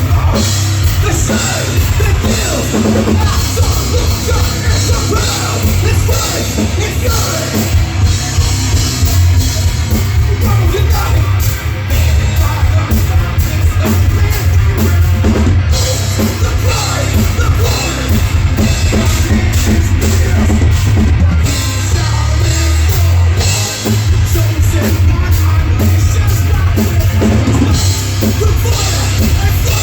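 A heavy metal band playing live: loud distorted guitars, bass and pounding drum kit, with vocals.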